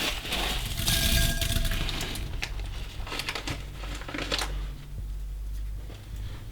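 Slime mixed with small beads being squished and kneaded: dense crackling and clicking for about two seconds, then sparser clicks and pops.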